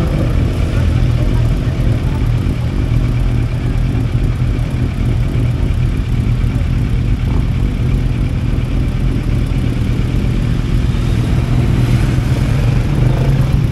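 Motorcycle engines idling close by in a stopped line of bikes, a steady low rumble. Near the end another motorcycle passes close by and its engine note briefly rises over the idle.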